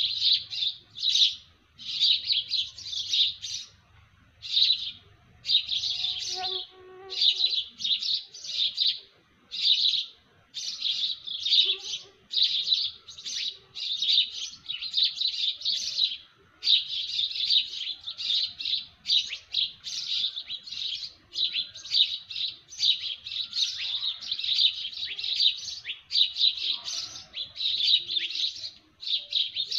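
Small birds chirping in a dawn chorus: fast runs of high, sharp chirps follow one another almost without pause, broken now and then by short gaps, with a few faint lower calls beneath.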